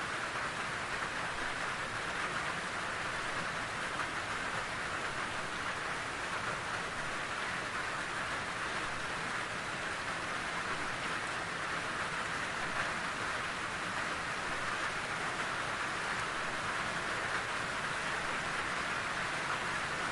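Steady rainfall, an even hiss of rain falling on surfaces with no breaks or changes.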